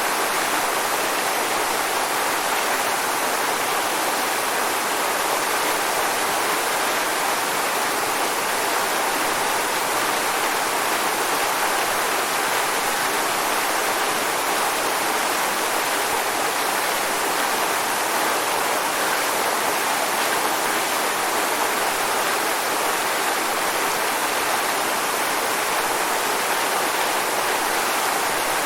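Waterfall: a steady rush of falling water, even and unbroken, with no distinct splashes standing out.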